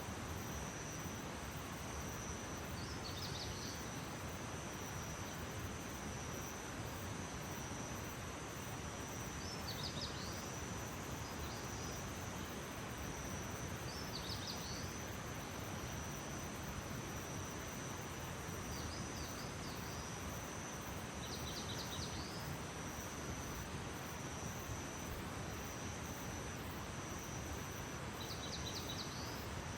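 Outdoor nature ambience: a steady high insect trill over an even background hiss, with short high bird chirps every few seconds.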